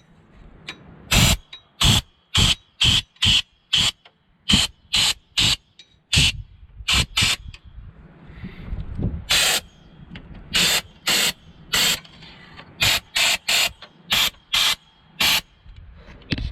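Compressed-air blow gun fired in short, quick blasts, about two dozen in irregular succession, blowing packed debris out of a clogged tractor radiator.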